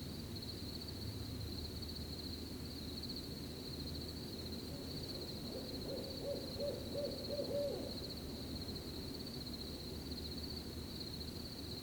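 An owl hooting a quick run of about six short notes partway through, over the steady pulsing chirp of crickets and a low background rumble.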